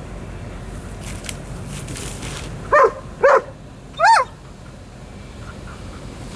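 A dog barking three times in quick succession, short high calls a little under a second apart, over a steady low background rumble.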